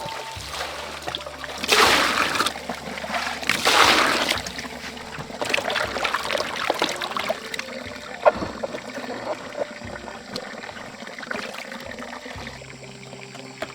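Water splashing and trickling, with two louder gushes about two and four seconds in, then small drips and splashes dying down.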